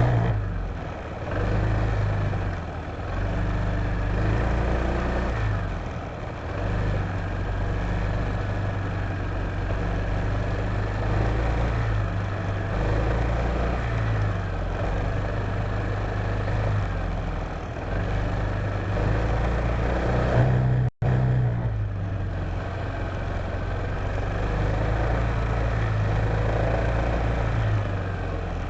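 Honda PCX150 scooter's single-cylinder four-stroke engine running under way, with wind and road noise, its note rising and falling with the throttle. The sound cuts out for an instant about two-thirds of the way through.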